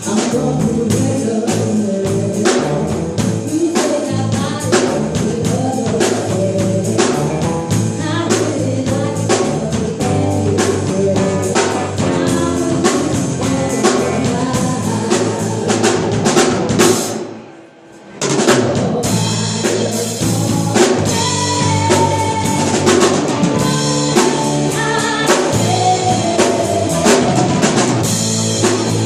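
Live band playing a pop cover, with drum kit keeping a steady beat under bass and singing. About seventeen seconds in the band stops together for a moment, then comes back in.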